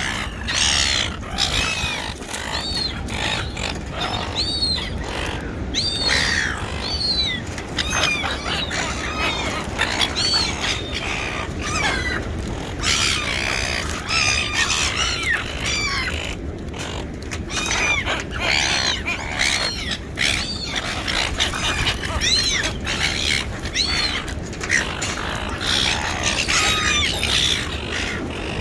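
A flock of seagulls calling over one another, with many short cries overlapping without a break.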